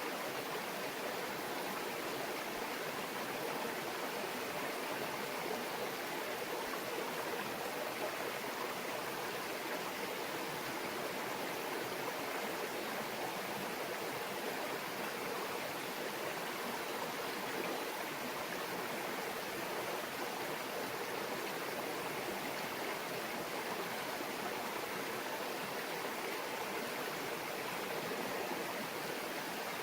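A small stream babbling steadily over rocks, an even rush of water without pauses.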